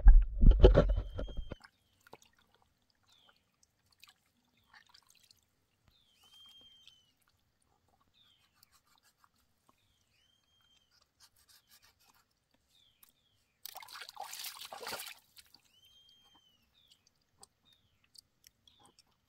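A short arched whistled call, like a bird's, repeating about every four to five seconds over a quiet riverside background. It opens with a loud low rumble on the microphone that stops after about a second and a half, and a burst of rustling noise comes near three-quarters through.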